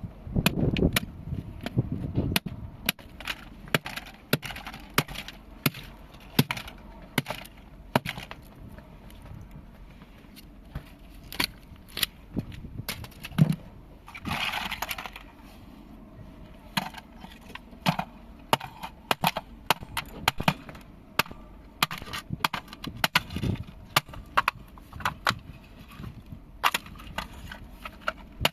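A small plastic appliance being broken apart: irregular sharp cracks, clicks and knocks, with a harder knock and a crunch lasting about a second about halfway through.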